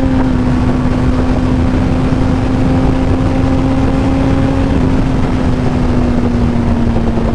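Yamaha R1 sport bike's inline-four engine running at a steady cruising speed, its note holding an even pitch, with wind rushing over the microphone.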